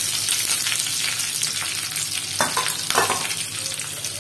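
Whole green chillies sizzling and crackling in hot oil in a small kadai, a steady frying hiss with a couple of sharper pops about two and a half and three seconds in. The chillies are at the start of frying, their raw smell still being cooked off.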